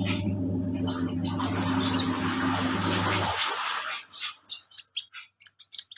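Washing machine running: a low motor hum with a swishing churn that stops about three seconds in. Over it a small bird, an olive-backed sunbird, gives quick high chirps, coming faster after the machine stops.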